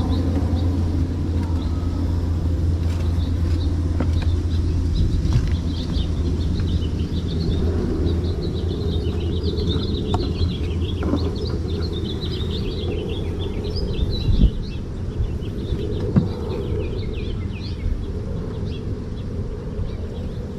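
Outdoor ambience: a steady low mechanical hum that fades after the first third, with small birds chirping in quick runs through the middle. Two sharp knocks come about two-thirds of the way in.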